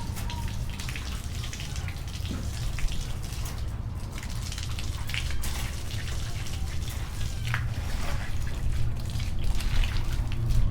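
Water running and splashing as a cat cage is washed, with scattered drips and small knocks over a steady low rumble.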